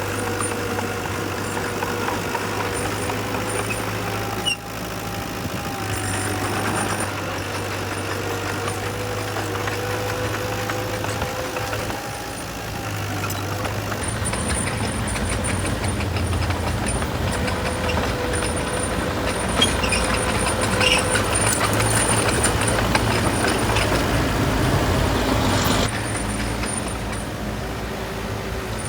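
Heavy construction machinery engines running steadily, the engine note shifting several times.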